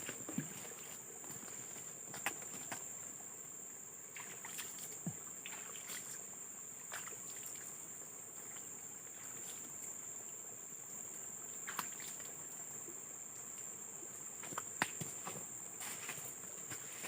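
Insects droning steadily at a high pitch, with scattered short sharp clicks and knocks.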